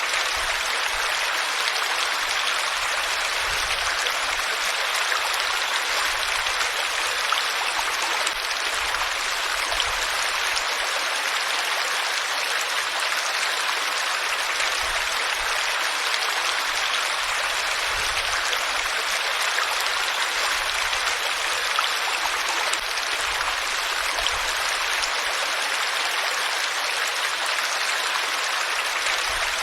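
Water flowing steadily, as in a stream: an even, unbroken hiss.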